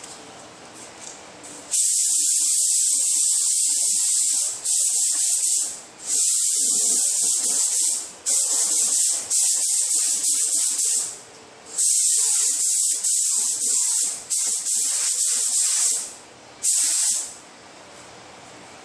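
Air spray gun spraying epoxy primer onto a car fender: a loud hiss of atomising air and paint in about seven bursts of one to three seconds, starting about two seconds in, with short pauses between trigger pulls and a brief last pass.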